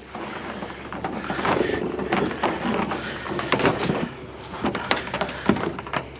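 Irregular knocks, clatter and rustling of scrap being carried on foot, with footsteps.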